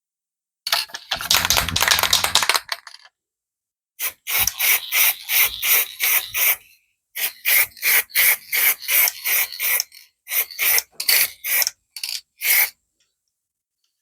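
Aerosol can spraying high-temperature gold paint: one longer spray of about two seconds near the start, then a rapid run of short bursts, several a second, for most of the rest.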